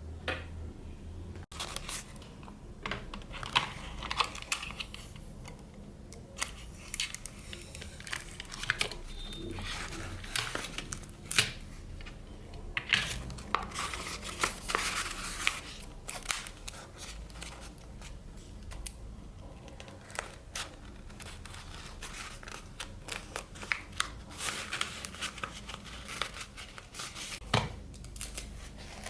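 Craft paper being handled and crinkled by hand, in an irregular string of short scratchy rustles and sharp clicks.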